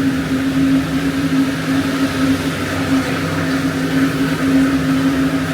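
A steady low mechanical hum, holding two constant pitches, over an even hiss of wet city street noise.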